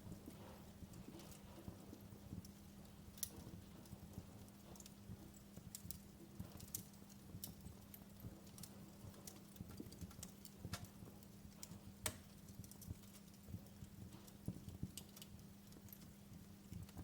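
Wood fire crackling: irregular sharp pops and snaps, a few louder than the rest, over a steady low hum.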